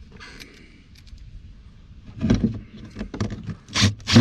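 Cordless drill driving screws in short trigger bursts, starting about two seconds in after some faint clicks and handling.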